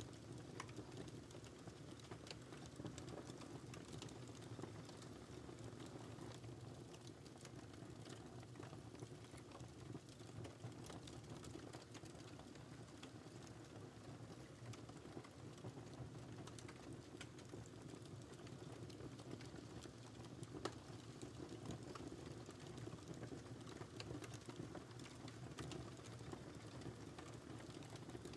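Wood fire burning in a fireplace: faint, steady low rush of the flames, with frequent small, irregular crackles and pops from the burning logs.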